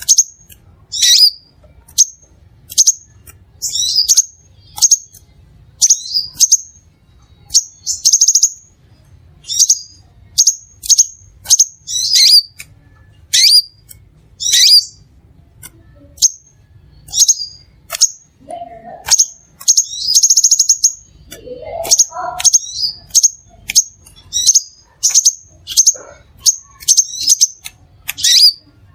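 Crimson sunbird singing: a run of short, sharp, high chirps, about one or two a second, with a longer trilled note twice.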